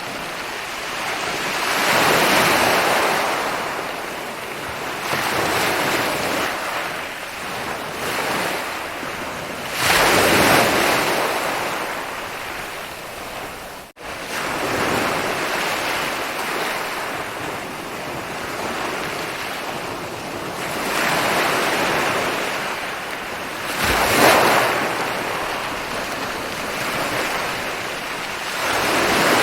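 Ocean waves breaking and washing up a beach, swelling and falling back every few seconds, with the biggest breaks about two, ten and twenty-four seconds in. The sound cuts out for an instant about halfway through.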